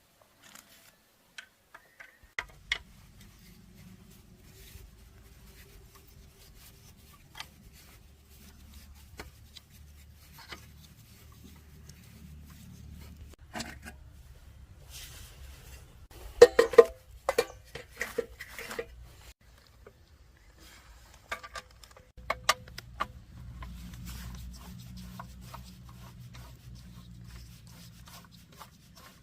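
Scattered metal clinks and knocks of hand-tool work on an engine, loudest in a quick cluster around the middle, over a low steady hum.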